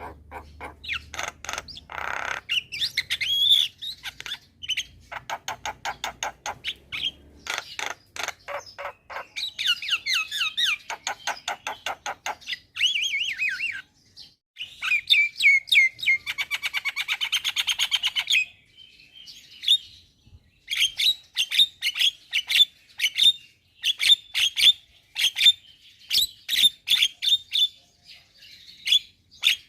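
Javan myna in full song: rapid chattering runs and trills, a harsh buzzy stretch about halfway through, then a string of short sharp whistles repeated in quick succession.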